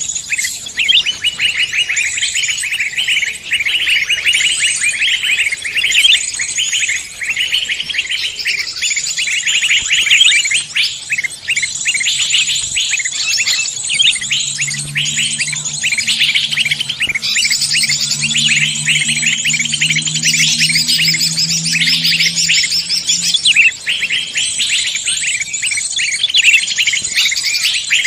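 Dense mix of many songbirds chirping and trilling rapidly, several species calling over one another. About halfway through, a low drawn-out tone sounds underneath the chirping for several seconds.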